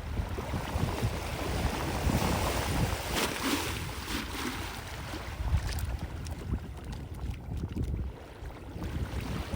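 Strong gusty wind buffeting the microphone in an uneven low rumble, over a soft wash of small waves in the harbour.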